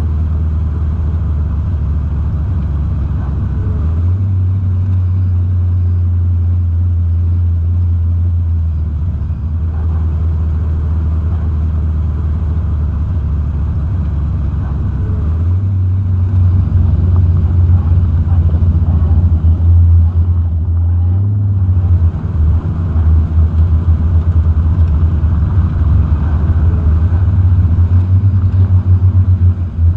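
A hot rod roadster's engine running deep and steady as the car drives slowly. The sound grows louder and more uneven from about halfway in.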